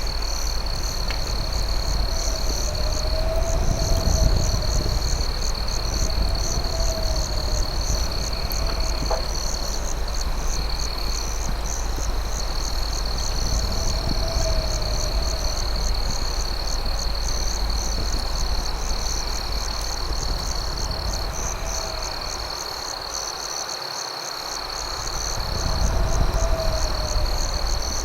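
Night insect chorus: crickets trilling, one high steady trill under a faster pulsing chirp. A lower warbling call repeats every few seconds over a low rumble, with a couple of faint campfire crackles.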